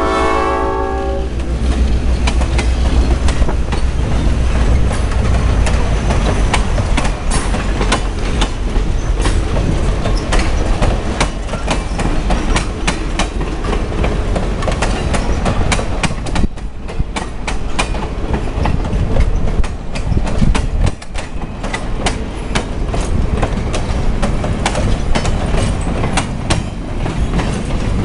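Passenger cars of a heritage excursion train rolling past, their wheels clacking over the rail joints in a long, irregular stream of clicks. A train horn chord cuts off about a second in.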